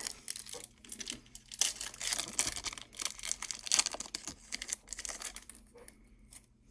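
A hockey card pack's wrapper being torn open and crinkled: a run of crackly rustling that dies down about five and a half seconds in.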